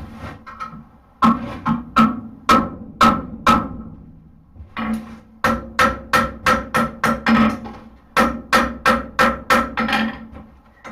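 Hammer blows on hot horseshoe steel over an anvil, struck about three times a second in three runs with short pauses between, each blow ringing with the same clear tones.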